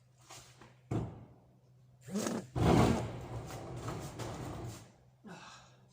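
A knock, then a long scraping drag as a heavy model railway layout board is hauled out from the wall, with short strained grunts from the man pulling it.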